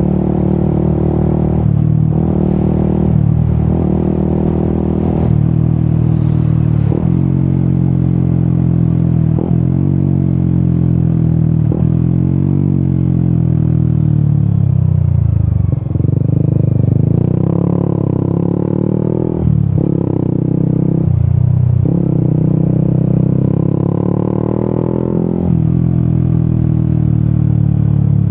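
Yamaha XSR 155's single-cylinder engine through an Akrapovic exhaust on the move. The exhaust note rises and falls with the throttle and breaks off briefly at each gear change, about ten times. Midway it winds down as the bike slows, then pulls hard again through several gears.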